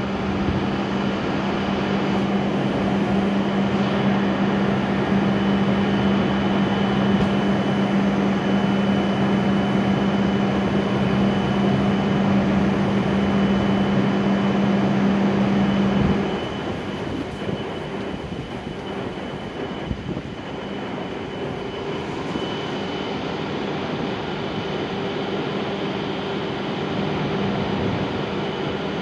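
E7-series Shinkansen train standing at the platform, its onboard equipment giving a steady electrical hum. A low drone cuts off suddenly about halfway through, and a higher steady whine comes in a few seconds later.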